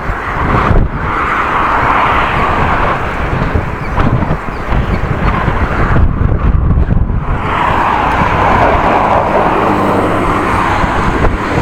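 Heavy wind buffeting a body-worn camera's microphone while cycling: a loud, constant low rumble with two long swells of rushing noise.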